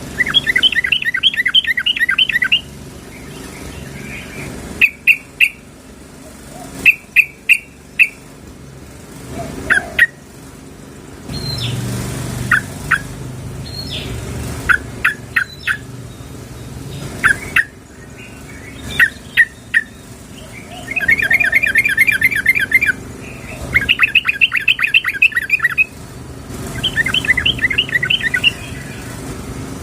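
Yellow-vented bulbul (trucukan) calling, billed as a female calling to a male. Rapid bubbling, rattling phrases about two seconds long come at the start and again three times near the end, with short sharp single chirps in between.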